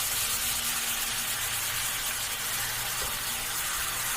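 Food frying in hot oil in a cooking pan, a steady, even sizzle.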